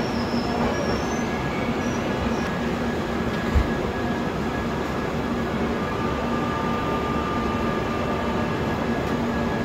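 Express passenger train running along a station platform, heard from an open coach doorway: a steady rumble under a low hum, with a single thump about three and a half seconds in.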